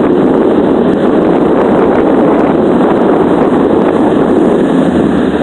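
Loud, steady wind buffeting the microphone on a moving motorboat, over the running of its outboard motor.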